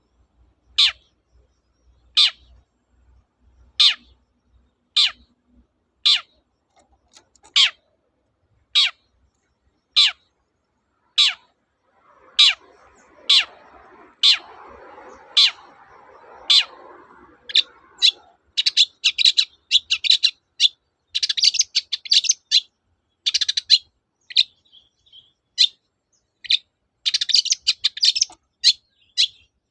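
Long-tailed shrike (cendet) calling: a series of sharp single 'toet' notes a little over a second apart, then from about two-thirds of the way in, rapid clustered chattering phrases. A faint rasping noise sits under the calls in the middle.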